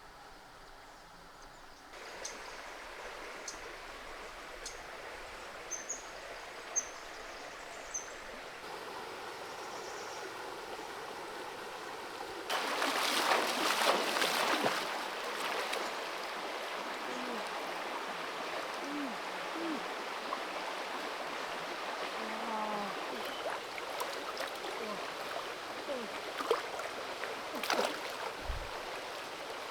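Forest creek water running steadily, louder for a couple of seconds near the middle, with scattered small clicks.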